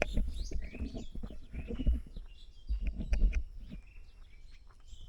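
Small birds chirping and calling repeatedly, with loud low rumbling bursts about two and three seconds in.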